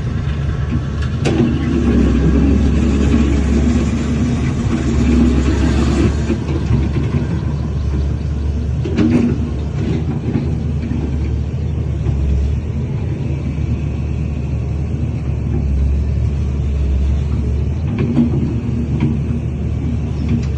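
Heavy diesel earthmoving machinery running with a steady low rumble, with a few clanks about a second in, in the middle and near the end.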